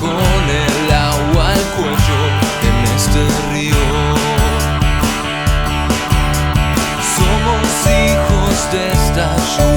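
Rock band playing: drum kit keeping a steady beat under bass and electric guitars.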